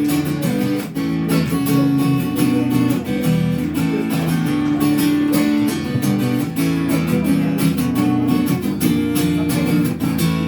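Instrumental break in a live pop song: strummed acoustic guitar chords in a steady rhythm, with no singing.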